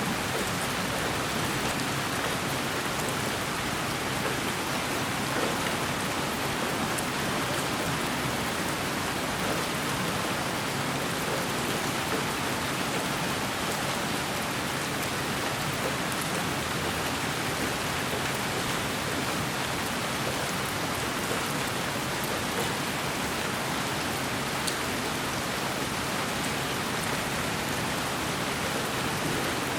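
Steady, unchanging white noise: an even hiss that fills every pitch from low to high, with faint scattered ticks in the highest range.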